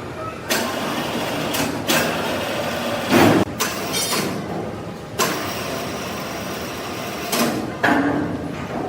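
Sawmill machinery running with a steady noise, broken by sharp knocks every one to two seconds, the loudest about three seconds in.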